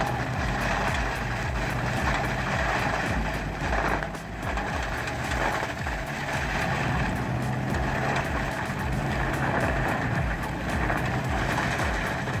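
Excavator-mounted stump grinder running, its heavy diesel engine working under a steady grinding noise as the attachment chews into a stump, with a brief let-up about four seconds in.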